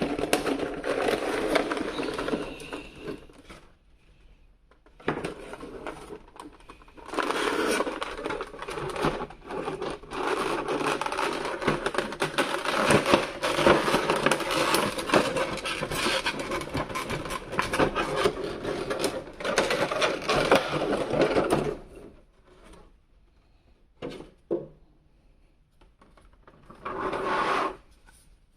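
Toy packaging being handled and opened at close range: long stretches of rustling and scraping of cardboard and plastic, with many small crackles, stopping for a few seconds about four seconds in and again near the end.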